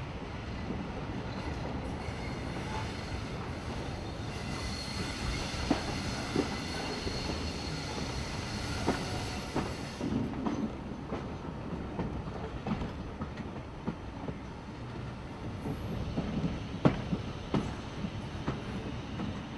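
A heritage train running along, heard from on board: a steady low rumble from the wheels and track, with irregular sharp clicks over the rail joints. A faint high whine runs through the first half and stops about ten seconds in.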